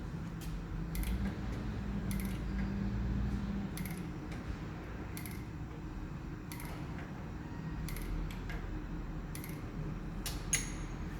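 Steady low machine hum with irregular light metallic clicks and ticks about once a second, the sharpest near the end, as small parts and tools are handled.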